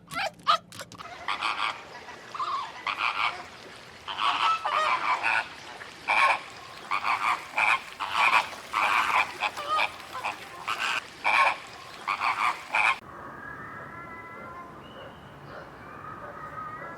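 Frogs croaking: a dense run of short, repeated calls that stops abruptly about thirteen seconds in, followed by a quieter stretch with faint, thin calls.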